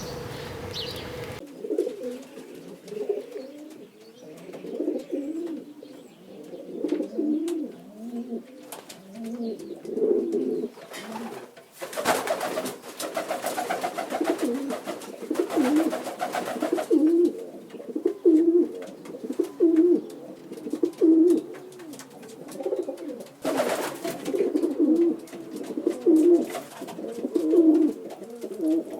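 Pigeons cooing, a low repeated coo about once a second. Two bursts of rustling noise cut through, a long one about halfway through and a short one later.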